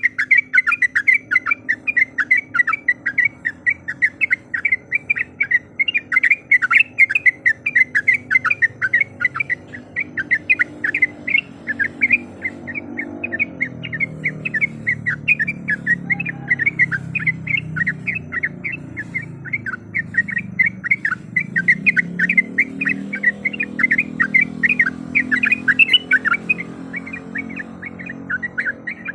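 Yellow-vented bulbul (trucuk) calling in a long, unbroken string of short, quick chattering notes, several a second, over a faint low background rumble.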